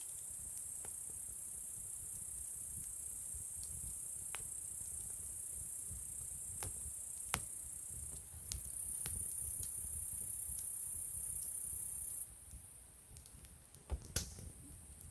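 Insects, crickets by the sound, trilling in a steady high chorus over a wood campfire that gives a few sharp crackles and pops. The insect chorus grows louder a little past halfway, then cuts out abruptly a few seconds before the end.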